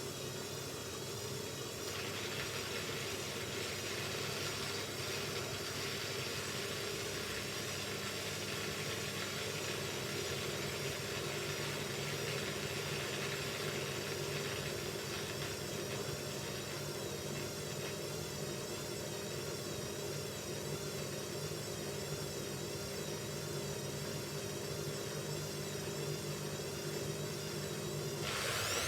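Hoover Ecologic Computer 1300 washing machine on its rinse and spin program: the motor runs at a steady low speed with a hum and a thin whine that wavers slowly. Near the end the motor speeds up, its whine rising in pitch and getting louder as the spin starts.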